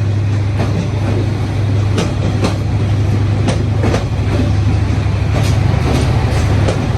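Passenger train coaches rolling past, with wheels clicking over the rail joints at irregular intervals over a steady low hum.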